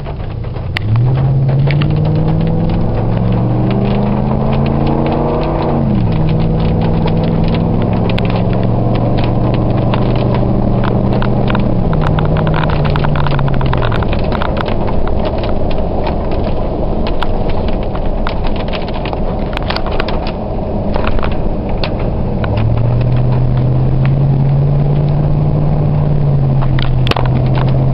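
A 2004 Ford F-150's 4.6 V8 exhaust through a Thrush turbo muffler, heard from inside the cab with the windows closed, accelerating up to about 45 mph. The engine note climbs, drops sharply at a gear change about six seconds in, and climbs again. It eases down between twelve and fourteen seconds, settles into steady cruising, and picks up again a little past twenty-two seconds, with scattered knocks throughout.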